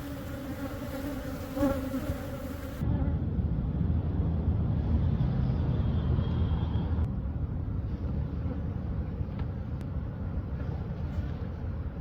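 Honey bees from an opened hive buzzing in a steady hum. About three seconds in, a louder low rumble takes over the sound and the bees' hum sits underneath it.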